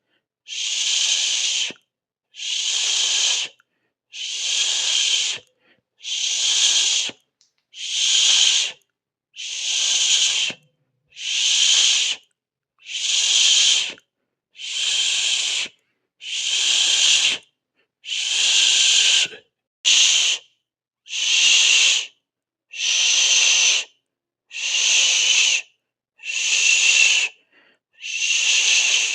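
A person hissing a long 'sss', over and over: each hiss lasts about a second, with a short silent gap before the next, about one every 1.7 seconds.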